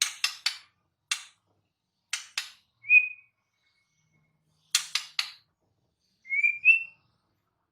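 White-rumped shama singing: short clusters of harsh rasping notes alternating with brief clear whistles, the last two stepping slightly upward, with short pauses between phrases.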